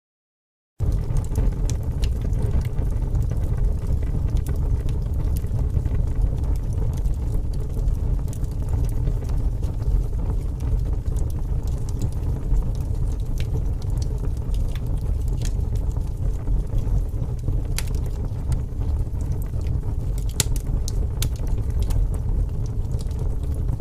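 Wood fire burning in a fireplace: a steady low rumble of flames with scattered sharp crackles and pops, starting abruptly just under a second in.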